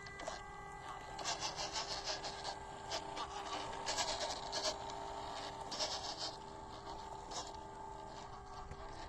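Small electric motor and gearbox of a 1/16 scale WPL RC crawler truck whining steadily, with the tyres crunching and scraping over dirt and rock. The scraping is loudest in the middle.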